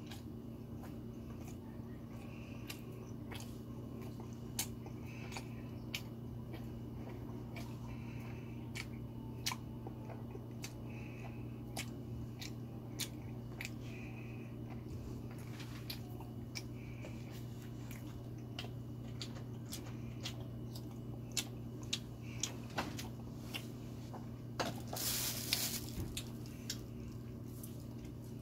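Close mouth sounds of chewing chapssal-tteok, sticky glutinous rice cakes, with many small wet clicks every second or so, over a steady low electrical hum. A brief rustle near the end.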